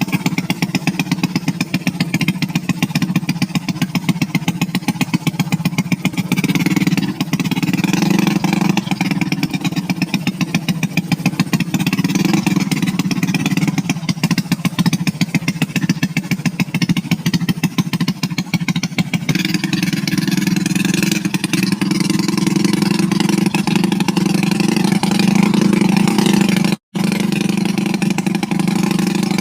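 Motorcycle engine running steadily at low revs, with a fast, even firing pulse. The sound drops out for an instant near the end.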